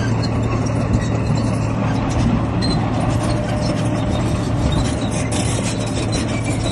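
Heavy diesel earthmoving machinery running steadily: a constant low engine drone with a broad rumbling, rattling noise over it.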